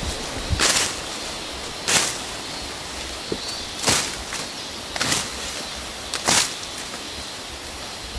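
A blade slashing through undergrowth to clear a forest path, five sharp irregular swishing strokes over a steady rushing background.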